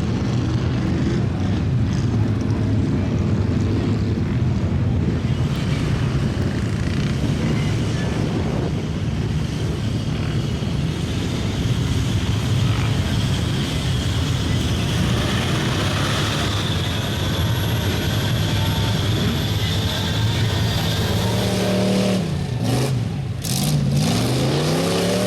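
A big mud truck's engine running hard and steady, its pitch dropping and then climbing back up near the end as the revs fall and rise again.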